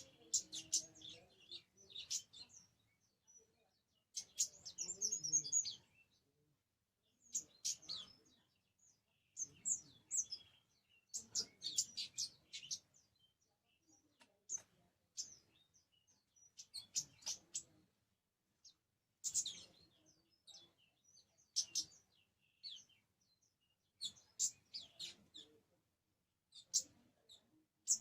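A kamade songbird singing in short, repeated bursts of high chirping notes, a new phrase every couple of seconds.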